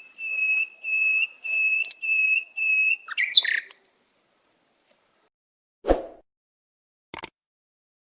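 A bird whistling a run of about six steady, evenly spaced notes on one pitch, then a short burst of quick chirps. A single thump about six seconds in and a couple of clicks near the end.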